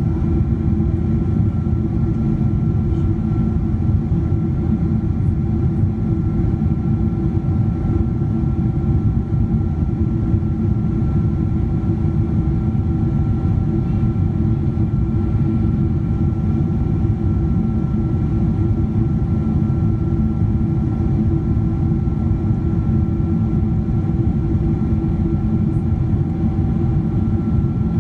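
Steady jet engine drone in the cabin of a Boeing 777-200ER with Pratt & Whitney PW4090 engines: a deep, even rumble with a few steady whining tones above it, unchanging throughout.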